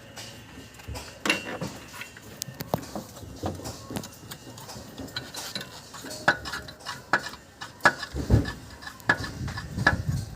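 Metal tools and parts clinking and knocking in an irregular series of sharp taps, several with a brief metallic ring, with a few duller thuds near the end.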